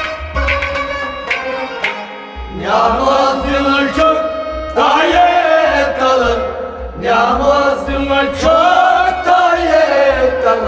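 Kashmiri Sufi song: long held sung phrases that swell and fall, each lasting about two seconds, over a drum accompaniment, after a short instrumental passage.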